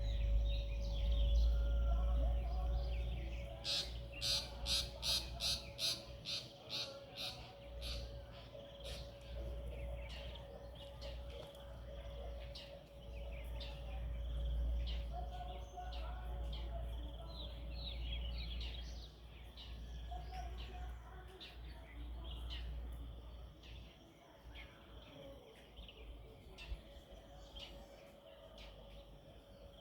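Wild birds chirping and calling. About four seconds in, one bird gives a quick run of about a dozen sharp repeated calls, roughly three a second. Underneath are a low steady rumble and a faint steady hum.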